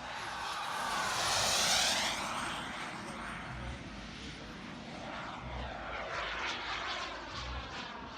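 Gas turbine engine of a large RC model jet flying past: a jet rush that swells to a peak about a second and a half in and then fades to a steadier level. A thin high turbine whine drops in pitch as it passes.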